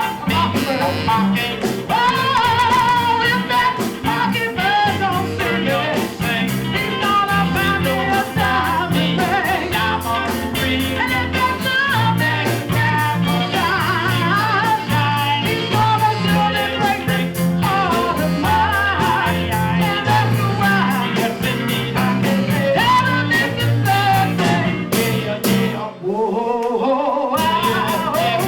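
Live rhythm-and-blues band with a female lead singer: a sung melody over bass, guitar and drums. The bass drops out for about a second near the end while the voice slides up.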